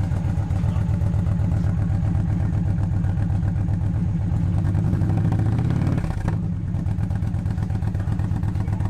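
Indian Challenger's liquid-cooled PowerPlus V-twin running through aftermarket Tab Performance slip-on mufflers with zombie baffles: a deep, pulsing idle, rising slightly about four seconds in and settling back to idle at about six seconds.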